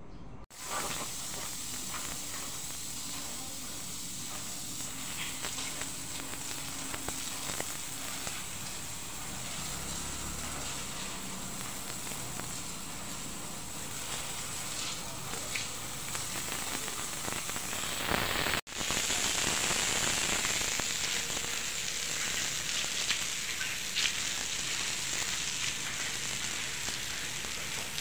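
Rain falling steadily: a dense, even hiss full of tiny crackling drops. It breaks off for an instant just after the start and again about 18 seconds in.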